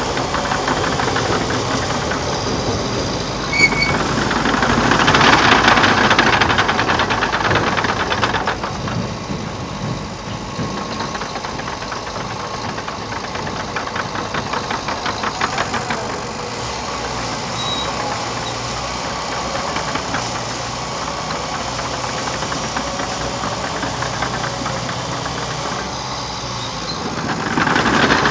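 Liebherr PR 726 crawler dozer working: its diesel engine running steadily under a rapid metallic clatter. The sound swells louder for a few seconds near the start and again near the end, with a single sharp click just before the first swell.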